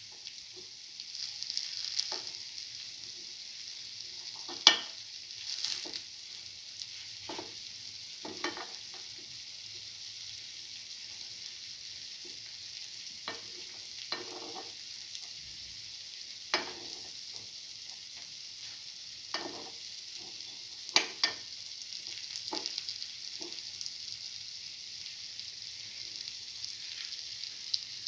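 Lentil fritters shallow-frying in hot oil in a cavity pan: a steady sizzle, with sharp clicks every few seconds.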